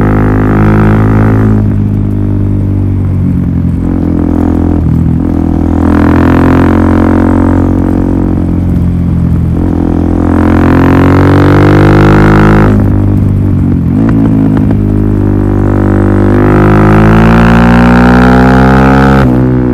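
Suzuki DR-Z400SM single-cylinder four-stroke engine running through a Yoshimura full exhaust system, with a deep drone. The revs climb and fall back about four times, as in accelerating and shifting.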